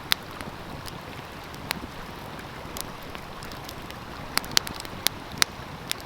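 Wood fire crackling, with sharp pops scattered through and a quick cluster of them in the second half, over the steady rush of a flowing stream.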